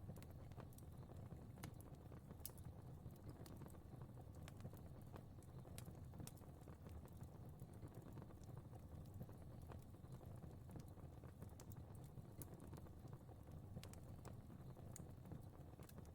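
Fire crackling quietly: scattered, irregular snaps and pops over a low steady rumble of burning.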